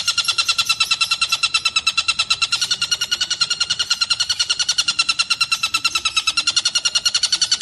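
Tengkek buto (a kingfisher) calling in a continuous, fast, even rattling trill of about ten shrill notes a second, without a break.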